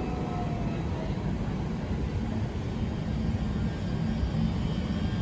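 A train's steady low rumble at the station, even in level throughout, with faint thin squeals near the start.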